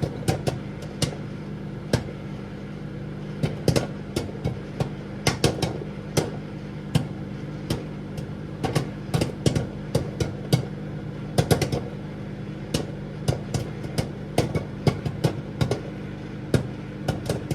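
Popcorn kernels popping inside a running microwave oven: sharp, irregular pops, sometimes several in quick succession, over the oven's steady hum.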